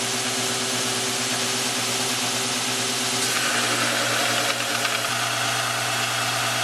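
Homemade 2x72 belt grinder driven by a 4.25 hp treadmill DC motor, running steadily with a hum. About three seconds in, a higher grinding tone joins as a workpiece is pressed against the abrasive belt, and it holds to the end.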